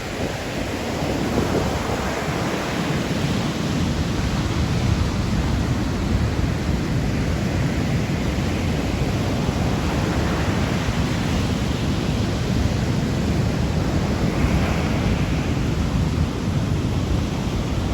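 Sea waves washing in as a steady roar of surf, swelling a little about ten seconds in and again near the end, with wind rumbling on the microphone.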